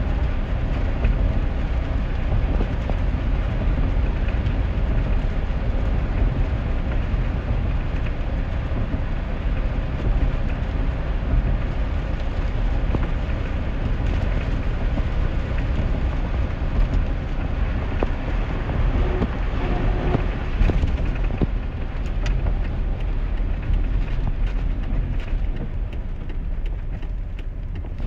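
2001 GMC Sierra pickup driving on a wet road in the rain: a steady low rumble of engine and tyres with the hiss of rain and spray, easing slightly near the end.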